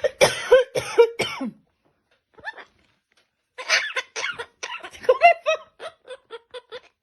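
Coughing: a few harsh coughs at the start, then, after a short pause, a quick run of short coughs, about three or four a second.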